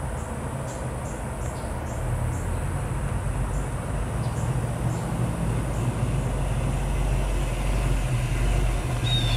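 A 1971 Plymouth Scamp's 360 V8 running as the car drives up the road, its low exhaust note growing steadily louder as it approaches.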